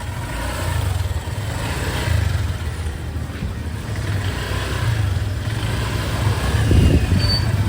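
Road traffic passing on a city street: vehicle engines rumbling, swelling louder near the end as one passes close.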